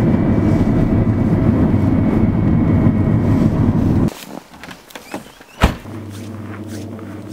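A motor vehicle running with a steady drone, which cuts off abruptly about four seconds in. Then come a few clicks and one sharp knock, and a fainter steady hum.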